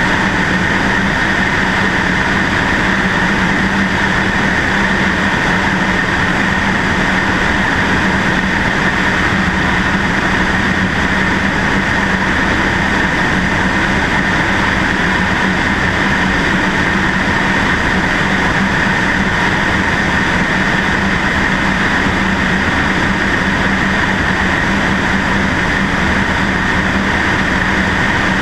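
Cessna 152's four-cylinder Lycoming engine and propeller running at a steady drone, picked up by a camera mounted on the wing under a heavy, even rush of airflow noise.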